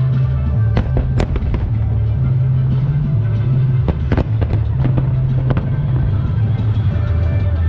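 Fireworks going off in a series of sharp bangs and cracks over loud music with a steady deep bass line. The bangs come in two clusters, one about a second in and another from about four to five and a half seconds in.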